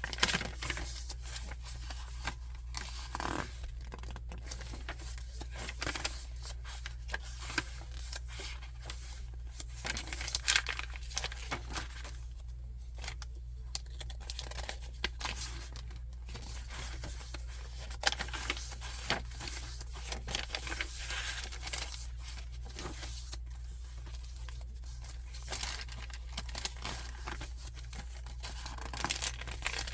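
Pages of a handmade paper journal being turned and handled, the stiff dyed papers rustling and crinkling in short irregular rustles, over a steady low hum.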